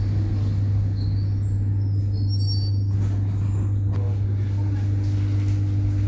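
Steady low hum from an ED9E electric train standing at a station, with no wheel clatter. There are brief high chirps in the first half and a sharp click about four seconds in.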